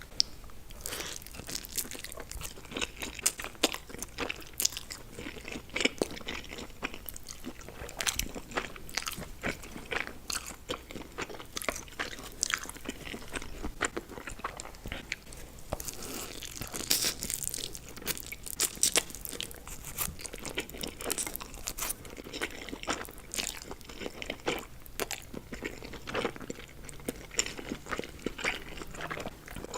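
A person eating close to the microphone, with a continuous run of crunching, biting and chewing clicks and smacks.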